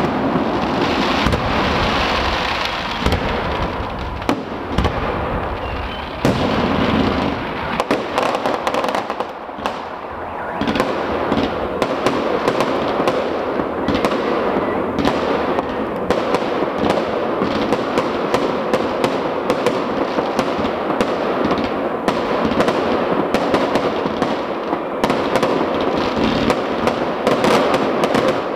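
Fireworks display: aerial shells bursting with many sharp bangs over a dense crackle, dipping briefly about a third of the way in.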